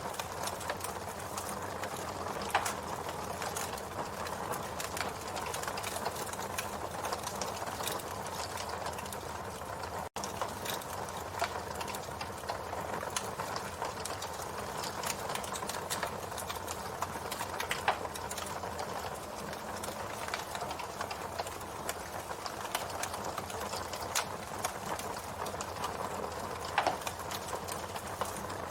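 Campfire burning: a steady hiss of flames with constant small crackles and pops, and a few louder snaps now and then.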